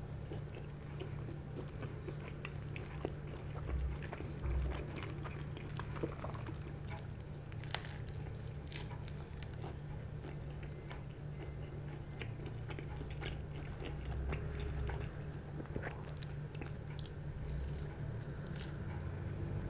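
A person biting and chewing a slice of thin-crust pepperoni pizza, close to the microphone, with many small scattered clicks from the mouth and food. A low steady hum runs underneath.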